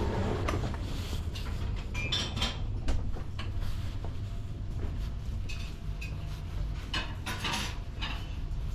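Inside a moving passenger train: a steady low running rumble, with bursts of clinking and rattling about two seconds in and again near the end.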